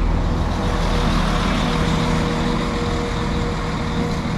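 Northern Class 195 diesel multiple unit's underfloor engines running at the platform, a loud, steady hum with a steady droning tone that eases off slightly.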